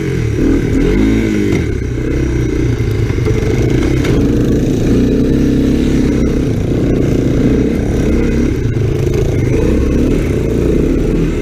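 Honda ATC three-wheeler's single-cylinder engine running hard under load, its pitch rising and falling as the throttle is worked through turns.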